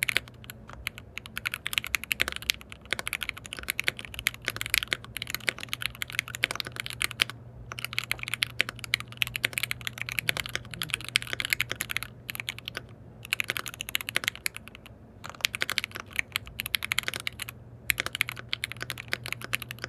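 Typing on a KBD67 Lite R3 custom mechanical keyboard with lubed linear switches: quick runs of key clacks broken by short pauses a few times. A steady low hum runs underneath.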